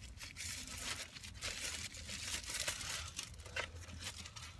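Irregular rustling and crinkling handling noise with small clicks, as of an item being handled and pulled out of its packaging or case.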